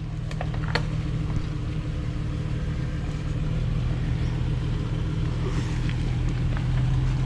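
Jeep engine running steadily at low revs as the Jeep crawls over a rutted off-road trail, growing a little louder near the end, with a few light knocks early on.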